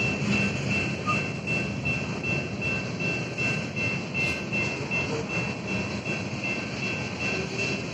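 Freight train cars rolling through a grade crossing, a steady rumble of wheels on rail, while an electronic crossing bell rings in quick, even, repeated dings.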